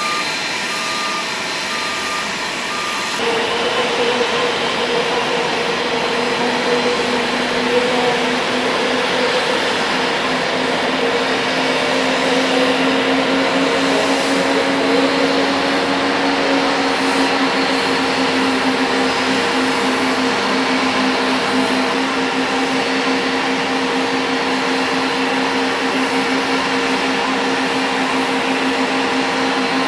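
An electronic reversing beeper repeating evenly, then about three seconds in the sound changes abruptly to the Boeing 777-200's jet engines running steadily: a continuous rushing noise with two steady whine tones.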